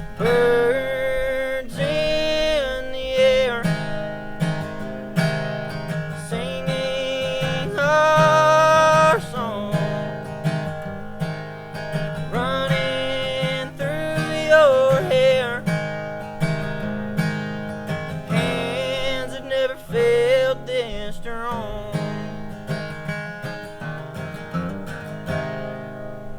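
Acoustic guitar strummed under a wordless melody line that is held in phrases and wavers in pitch; it eases off near the end.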